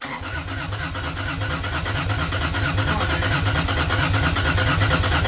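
Toyota 2JZ-GE inline-six turning over and trying to fire, a steady rhythmic chugging that grows slightly louder. It is not getting enough fuel pressure because the fuel line is leaking.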